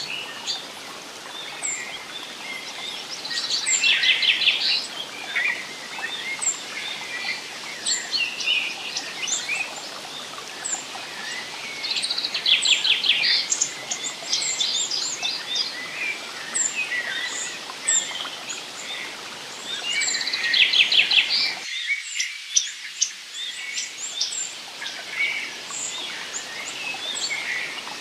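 Songbirds singing in a forest: one bird repeats a rapid trilling song about every eight seconds while others give thin, high chirps, over a steady soft hiss of background noise. The low part of the background hiss briefly cuts out about three quarters of the way through.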